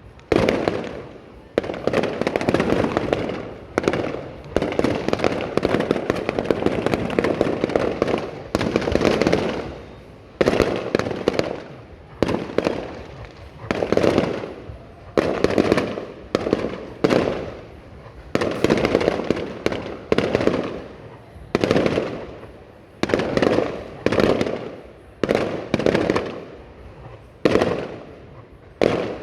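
Fireworks display: shells bursting one after another, a loud bang about every one to two seconds, each dying away before the next.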